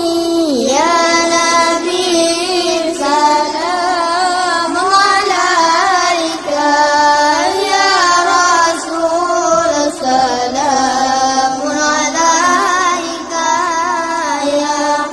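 Shalawat, an Islamic devotional song, sung by a high voice in a continuous, ornamented melody that glides between notes.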